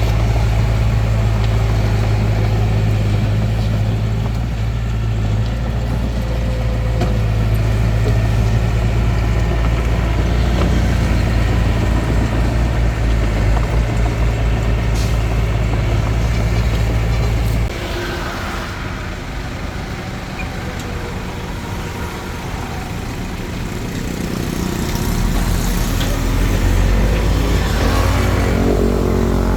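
Bulldozer's diesel engine running steadily under load. A little past halfway the engine sound drops suddenly and stays lower for several seconds, then builds back up near the end.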